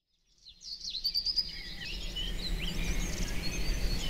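Several birds chirping and calling in quick, gliding notes over a steady low outdoor rumble, fading in about half a second in.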